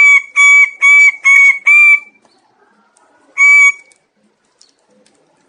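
Bird-of-paradise calling: a rapid run of loud, identical arched notes, about three a second, that breaks off about two seconds in, followed by a single matching note a moment later.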